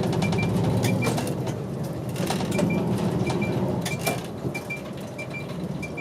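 Route bus's diesel engine running with its turn-signal indicator ticking in a steady rhythm, a tick-tock about three times every two seconds. The engine hum eases off after the middle, and a few sharp knocks rattle through the cabin.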